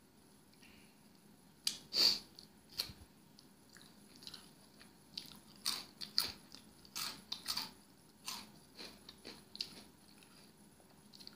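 Close-up chewing and biting of a pizza topped with Flaming Hot Cheetos, with irregular crisp crunches and mouth clicks.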